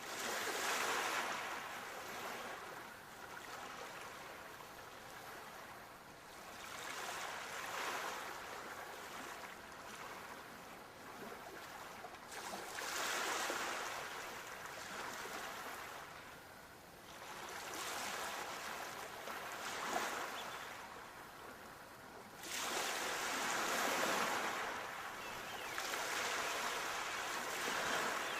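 Sea waves breaking and washing up on a shore, one after another: the surf swells up and dies away about every five seconds.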